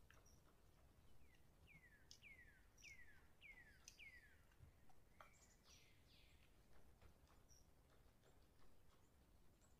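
Near silence with faint bird calls: a run of about six quick notes, each falling in pitch, about half a second apart from one to four seconds in, then a few scattered chirps.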